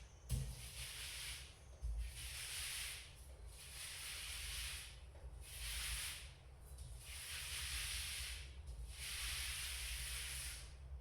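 Paint being spread on a wall in repeated strokes, each a hissing rasp about a second long, some seven strokes in a row. Two low thumps come in the first two seconds.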